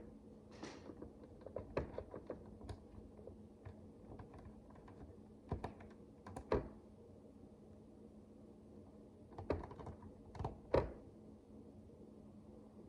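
Micro bricks (miniature plastic building bricks) clicking and tapping as they are handled and pressed together, in irregular clusters of small sharp clicks. A faint steady hum runs underneath.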